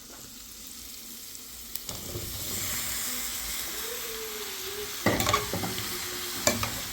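Food frying in oil in a pan, the sizzle growing louder about two seconds in, with a few sharp clicks of a utensil against the pan about five and six and a half seconds in.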